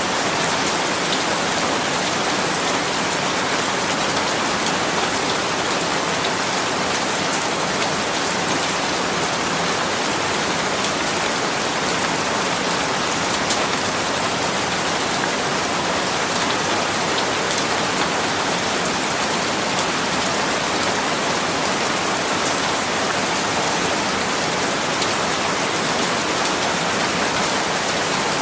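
Steady rain falling, an even hiss of many drops with faint individual drop ticks, unchanging in level throughout.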